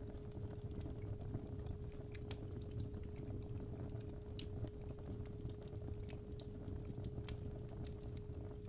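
A fireplace fire crackling, with scattered sharp pops over a low rumble. A steady 417 Hz tone sounds under it throughout.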